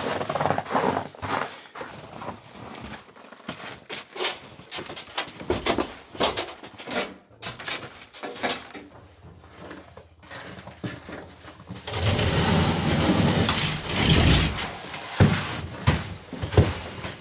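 Irregular knocks, clunks and clicks of a cabin door and gear being handled. About twelve seconds in comes a few seconds of loud rustling, followed by more knocks.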